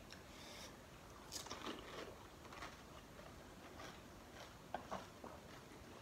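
Faint, scattered crunches and clicks of a crisp fried pani puri shell being bitten and chewed.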